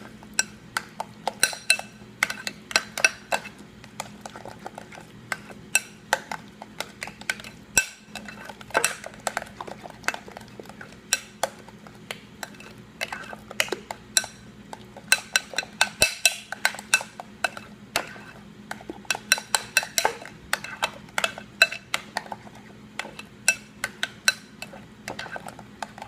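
A utensil stirring potato salad in a bowl, clinking and knocking against the bowl several times a second in an uneven rhythm.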